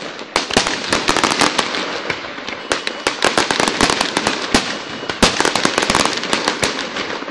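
Aerial fireworks going off in rapid succession: dense, overlapping bangs and crackling pops as several shells burst at once.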